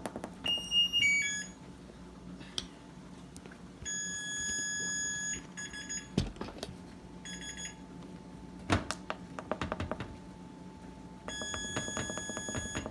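Maytag Neptune front-loading washer's electronic control panel beeping: a short stepped chirp of tones, a long steady beep about four seconds in, a few shorter beeps, and rapid repeated beeping near the end, with clicks and a couple of thumps. The panel beeps at whatever button is pressed and will not start the machine, a sign of a faulty control panel.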